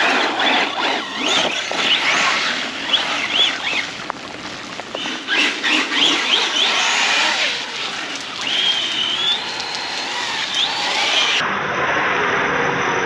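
Arrma Big Rock 6S RC truck's brushless motor whining up and down in pitch with throttle bursts, over the hiss of its tyres spinning and spraying on wet pavement. Near the end it gives way to a steadier hiss.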